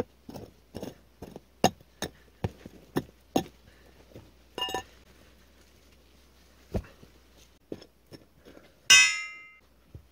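Hard building materials and tools being knocked and set down during construction work: a run of sharp knocks, about three a second, then a few scattered ones, with a short ringing clink partway through and a loud metallic-sounding clang that rings and fades near the end.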